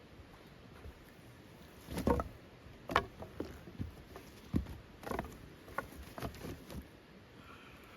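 A series of about eight irregular light knocks and clicks, the loudest two near the start, over a faint steady background.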